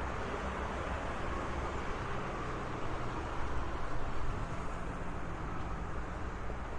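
Road traffic: a steady wash of passing cars with low engine and tyre rumble, swelling briefly about halfway through as a vehicle goes by.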